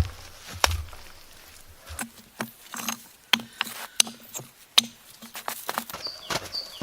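Irregular sharp knocks and clicks, about a dozen over several seconds, with a few low thuds in the first second.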